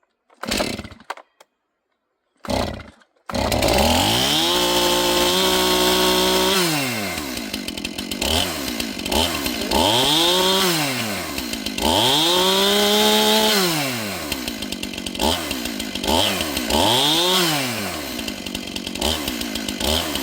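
Two-stroke Stihl chainsaw pull-started: two short pulls, then it catches about three seconds in and runs at high revs. It then drops back and is revved up and down about six times, each blip rising and falling in pitch.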